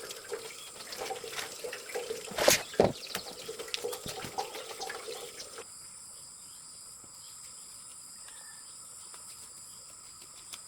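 Water splashing and dripping, with scattered clicks and two sharp knocks a little over two seconds in. Just past halfway it cuts to a quieter steady background with faint high tones.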